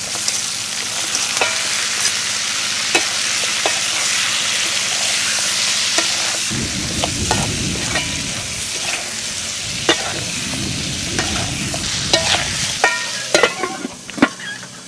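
Food sizzling and frying in a hot pan, a steady hiss dotted with sharp crackles. A lower rushing sound joins for about six seconds in the middle.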